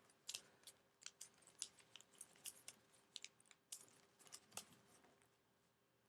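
Faint crinkling and creasing of origami paper being handled and folded: a scattered run of soft, crisp ticks and rustles that dies away near the end.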